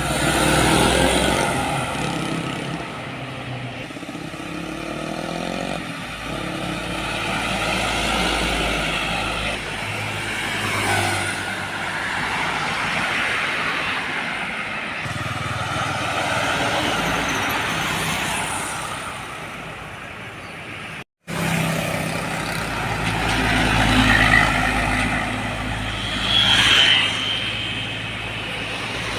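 Road traffic with heavy trucks passing: diesel engines and tyre noise rising and fading as each one goes by. The sound drops out for an instant about two-thirds of the way through.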